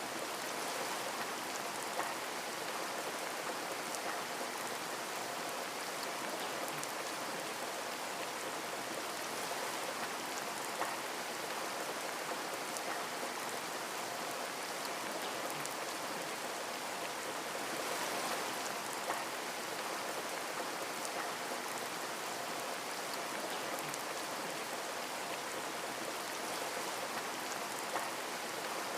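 Water running or falling steadily: an even hiss with a few small drip-like ticks now and then.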